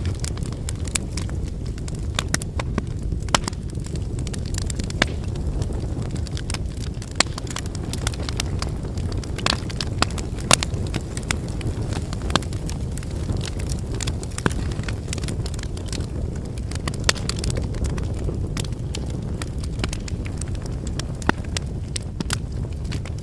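Wood fire burning: a steady low rumble of flame, with frequent irregular crackles and pops from the burning firewood, a few of them sharply louder.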